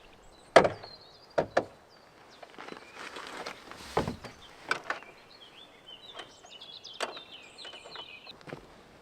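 Several separate sharp knocks and thumps, the loudest about half a second in, with birds chirping in short high notes during the second half.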